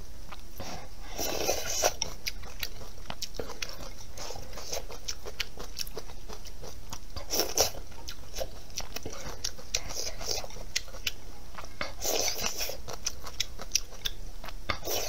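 Close-up eating sounds: a person chewing and biting into pickled-cabbage noodles, with many wet mouth clicks and a few louder noisy bursts near the start, midway and near the end.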